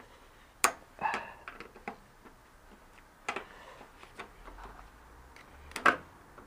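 Irregular metal clicks and knocks of hand tools working on a spin bike's parts during disassembly, with a few sharp ones and the loudest about six seconds in.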